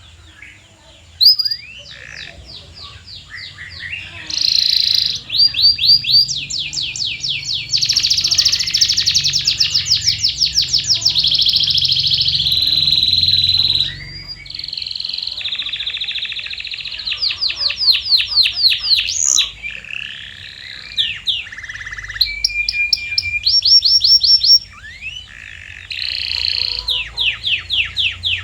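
Domestic canary singing a long song of fast repeated trills and rolls, phrase after phrase with brief pauses between them.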